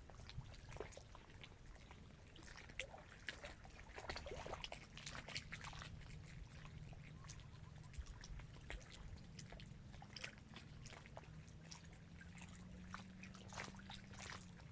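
Small waves lapping against the reservoir shore at a dam, faint, with many small irregular splashes and clicks over a low rumble.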